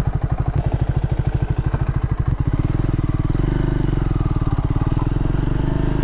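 Triumph 400 single-cylinder motorcycle engine idling with an even, rapid pulse, then revved up about two and a half seconds in and held at higher revs.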